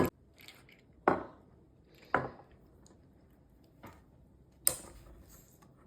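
Plastic clicks and knocks from the push opener of a Ramune marble-soda bottle as it is worked, a few separate strokes. Near the end comes a sharper pop with a short hiss as the glass marble is forced down and the carbonation escapes.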